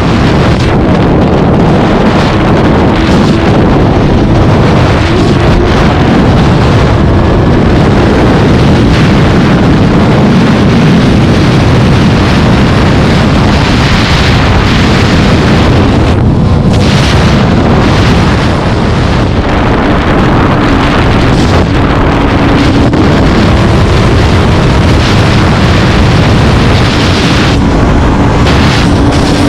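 A vehicle under way at speed, with heavy wind buffeting the microphone over a faint engine note that shifts in pitch now and then.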